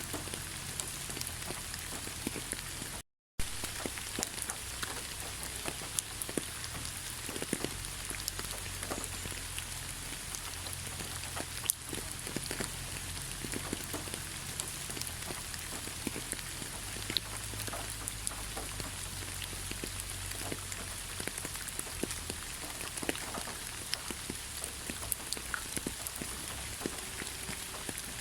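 Steady rain falling in a pine forest: a dense even hiss with many separate drops ticking through it. The sound cuts out completely for a moment about three seconds in.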